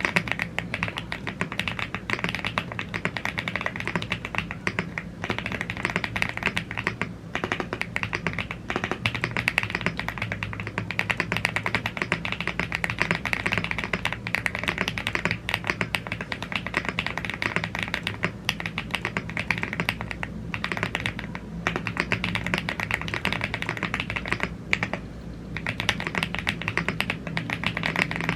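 Fast, continuous typing on a gasket-mounted aluminium mechanical keyboard with Blue Grey tactile switches and double-shot PBT keycaps, keystrokes clacking densely with brief pauses about five, seven, twenty and twenty-five seconds in.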